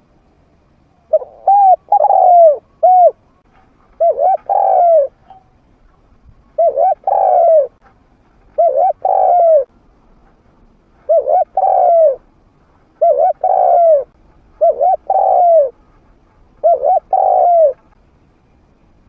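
Spotted dove cooing: a trained decoy bird's medium-pitched call of the kind used to lure wild spotted doves in to fight. About eight coo phrases, each a quick run of notes lasting about a second, repeat roughly every two seconds.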